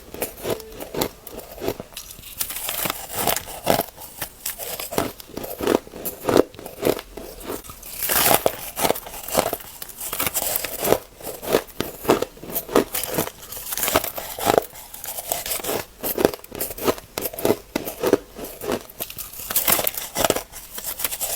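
Ice being bitten and chewed: a rapid run of crisp crunches and crackles, several a second, with no break.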